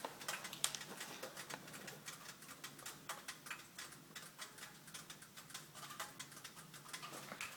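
Rapid, uneven ticking in a 2009 Mitsubishi Lancer Ralliart, several light clicks a second over a faint steady hum, which the owner traces to underneath the passenger seats and rear seat rather than the engine bay.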